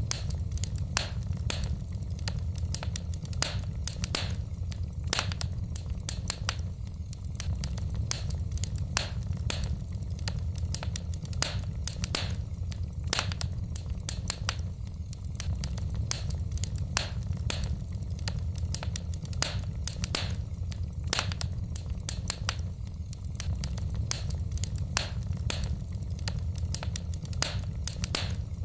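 Wood fire burning in a fireplace: logs crackling and popping with frequent sharp snaps over a steady low rumble of the flames.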